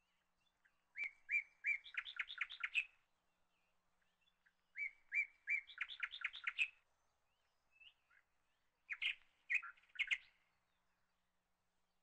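A small songbird singing three phrases: each starts with a few separate high notes and runs into a quick trill, about a second in, at about five seconds, and a shorter one near the end.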